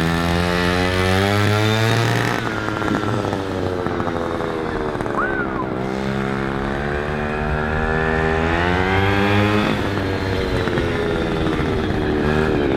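Small 43cc two-stroke engine of a gas-powered stand-up scooter running under throttle while being ridden. Its pitch climbs as it accelerates, drops suddenly about two seconds in, then climbs again from around six seconds and falls back near ten seconds.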